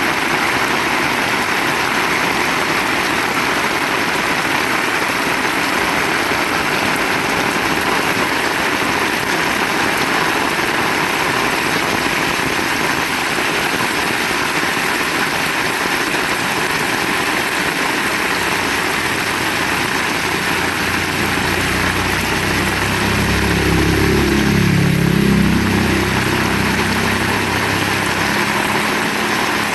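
Heavy rain falling steadily. About two-thirds of the way in, a low rumble of thunder swells, peaks and fades away.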